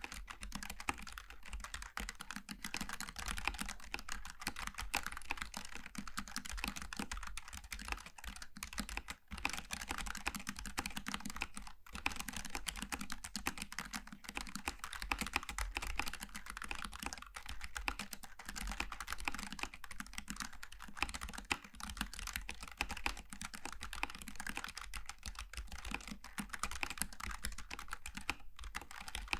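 Continuous typing on a Logitech G915 TKL low-profile mechanical keyboard with GL Tactile switches: a fast, dense run of key clicks with a couple of brief pauses.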